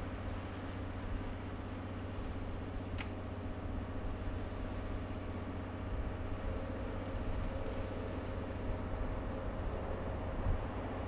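JR EF510 electric locomotive hauling the Hokutosei sleeper train as it approaches: a low steady rumble that grows slightly louder, with a faint steady whine joining about halfway. A single short click sounds about three seconds in.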